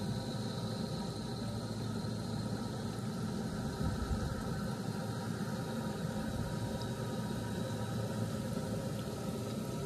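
A motor running steadily at an even speed, a constant hum with a low rumble.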